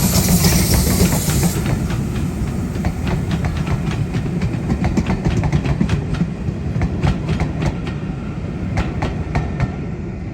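Train running past on the line, its wheels clicking rapidly over rail joints above a steady low rumble; a high hiss cuts off about a second and a half in.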